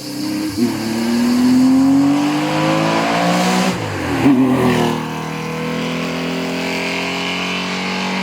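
Historic racing car engine accelerating hard, its pitch climbing for about three seconds, then a gear change about four seconds in, after which it climbs again more slowly.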